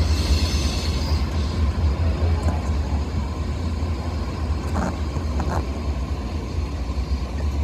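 Low, steady rumble of a freight train as its last cars roll away from the grade crossing.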